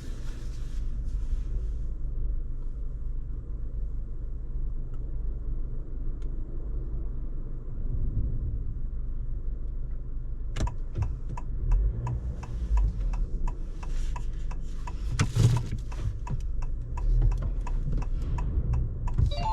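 Low, steady rumble inside a Honda ZR-V's cabin. From about halfway through comes a run of irregular clicks and knocks.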